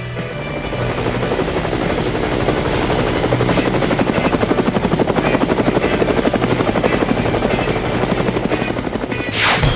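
A fast, steady rhythmic chopping that swells in the middle, with a short whoosh near the end.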